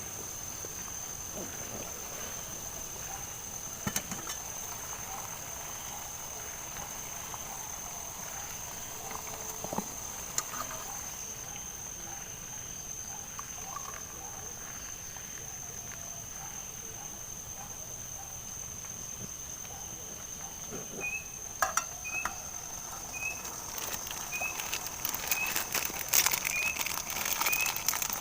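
Night insect chorus: a steady, high-pitched cricket trill with faint rhythmic calls lower down. Near the end, short chirps repeat about every 0.7 s over a growing patter of crackling clicks.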